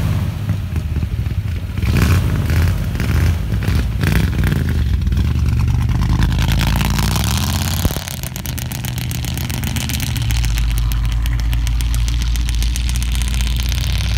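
Early-1960s Ford Galaxie's engine, heard through its dual exhaust. It rises in a few revs over the first seconds, then settles into a steady low drone as the car pulls away across the grass.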